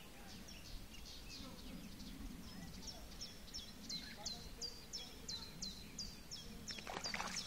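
A small bird calling over and over, short sharp high chirps at about three a second, growing plainer from about three seconds in. A short rush of noise comes near the end.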